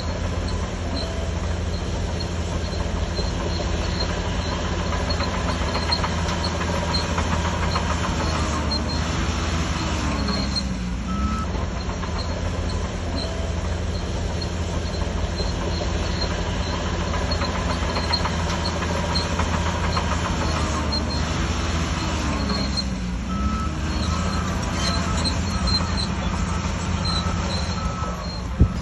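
Shantui DH17C3 crawler bulldozer's diesel engine running steadily under load, with its steel tracks squealing twice along the way. Short repeated beeps, like a reversing alarm, come in near the end.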